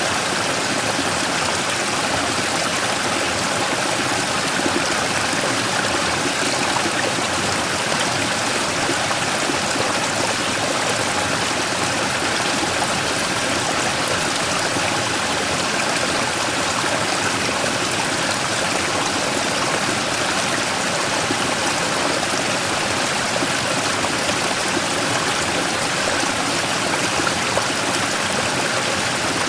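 Mountain stream flowing over and around a large rock: a steady rush of water with small-scale splashing and gurgling.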